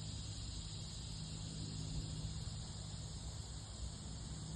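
Steady high-pitched chorus of insects trilling, over a low rumble.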